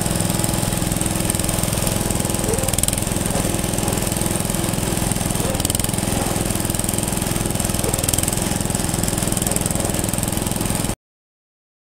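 An engine running steadily with a rapid, even beat, cut off abruptly near the end.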